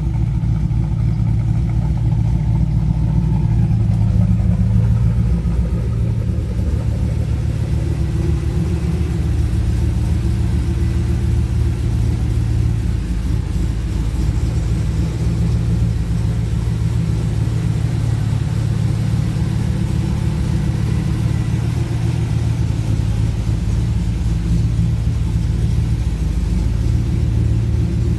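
1983 Pontiac Firebird Trans Am V8 engine idling steadily while still cold from a cold start, with a brief swell in level about four seconds in.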